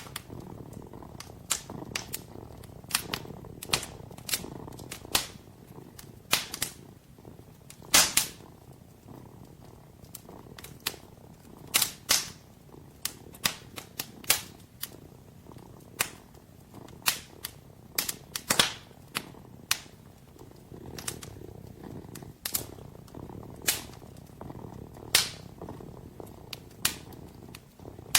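Wood fire in a fireplace crackling, with irregular sharp pops, a few of them louder, over a kitten's low steady purring.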